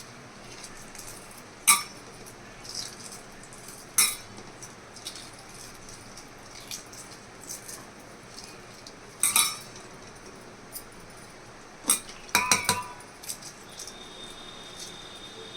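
Kitchen utensils and dishes clinking and knocking now and then: a few sharp clinks of metal or glass, some ringing briefly, with a quick cluster of them about three-quarters of the way through.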